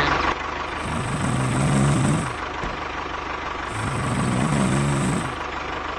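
Truck engine idling with a steady low throb and revving up and back down, in a cycle that repeats about every three seconds.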